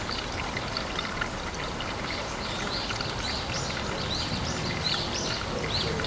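Steady trickling, pouring water at a pond, with a quick series of short high chirps over it in the second half.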